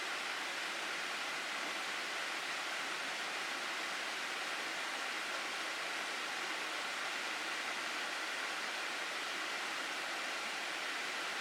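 Water flowing steadily over rocks in a mountain gorge stream, an even rushing hiss with no change in level.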